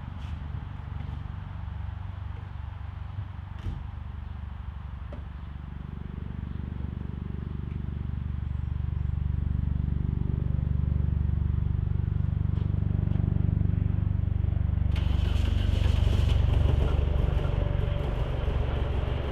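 VW Super Beetle's modified 1641cc air-cooled flat-four running, getting louder from about six seconds in as it picks up speed. About fifteen seconds in, a sudden hissy, brighter sound joins it. The owner says this engine, once warm, makes a noise like pre-detonation at cylinder three that adjusting the timing does not change.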